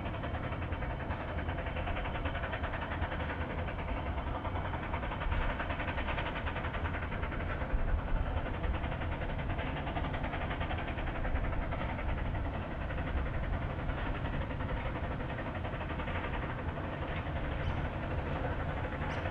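Puffing Billy's narrow-gauge steam train running steadily along the line.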